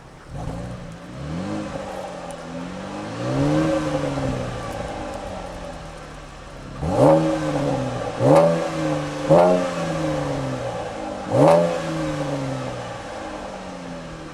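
2014 Chevrolet Camaro's 3.6-litre V6 revved through its stock exhaust, heard at the tailpipes. Two slower revs rise and fall early on, then four quick, sharp throttle blips in the second half, each dropping straight back to idle.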